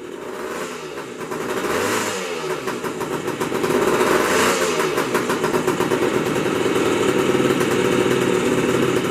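1966 Honda CA160 Benly's parallel-twin engine running, revved up and back down twice in the first few seconds, then running steadily.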